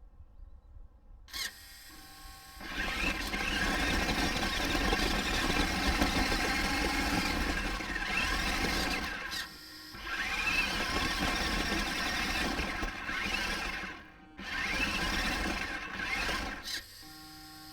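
Remote-control toy car's electric motor whining as it drives, its pitch rising and falling with speed. It starts about two seconds in, stops briefly twice, and stops near the end.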